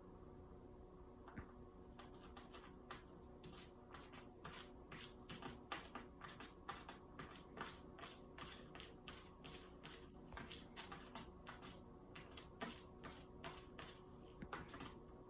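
A cat scratching and raking cat litter, covering droppings: quick, dry scratching strokes, irregular and several a second, starting about a second in, over a faint steady hum.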